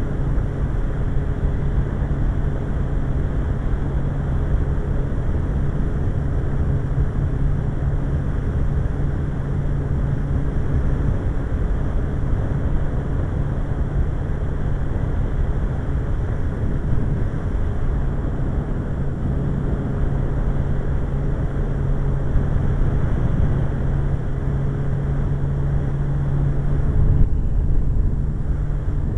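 Suzuki GSX-R 1100 inline-four motorcycle engine running at a steady cruising speed, with wind rushing over the microphone.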